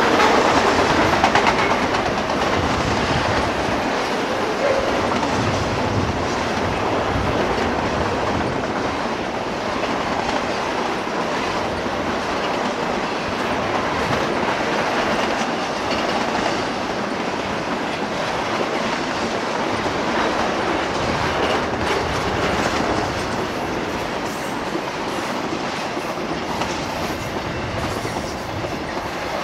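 Double-stack intermodal freight train's container well cars rolling steadily past, a continuous noise of steel wheels on the rails.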